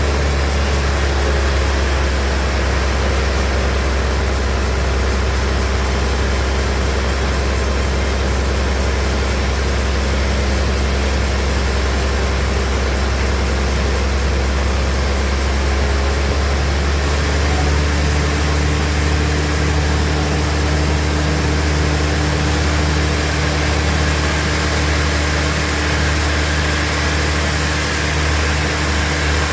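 Bandsaw sawmill machinery running with a steady low hum, its tone shifting slightly about halfway through.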